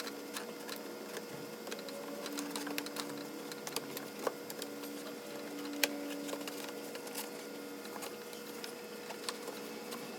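Plastic air intake snorkel being fitted onto a Hummer H3's engine intake by hand: scattered clicks, taps and knocks of plastic and metal parts being pushed into place, over a steady low hum.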